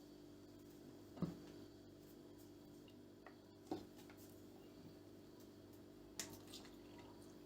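Near silence: a faint steady room hum with a few soft, separate clicks or taps, about a second in, in the middle and near the end.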